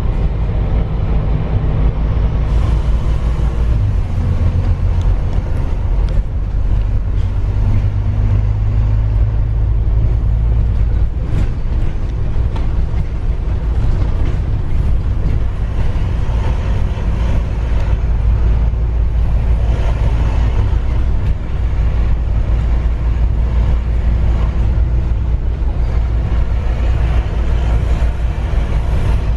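A road vehicle running steadily with a continuous low rumble.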